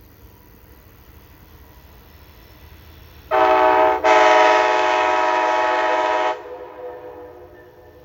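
Locomotive air horn sounding two blasts, a short one about three seconds in and then a longer one, with a chime-like chord of several notes that cuts off sharply and echoes briefly.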